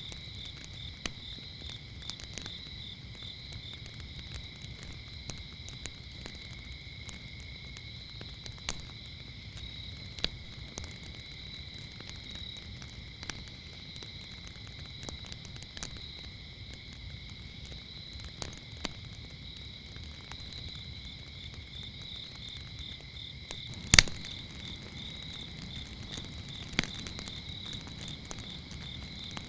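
Wood fire crackling with scattered sharp pops, one much louder pop near the end, over a low steady fire hiss. Crickets trill steadily throughout, with a higher short chirp repeating about once a second.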